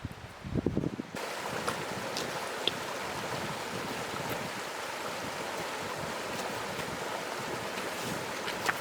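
Mountain stream at its headwaters flowing steadily, an even rush of water that starts abruptly about a second in, after a few low thuds.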